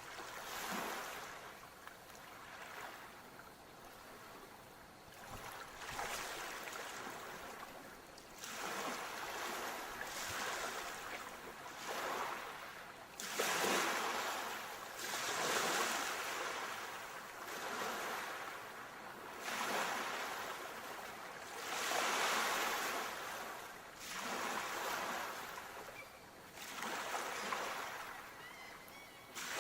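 Sea waves washing in, one rush of surf after another about every two seconds, each swelling and fading. They are louder through the middle stretch.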